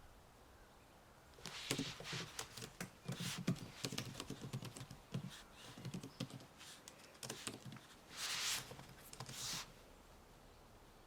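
Typing on a computer keyboard: quick irregular key clicks in bursts, starting about a second and a half in. Two longer swishing noises come near the end.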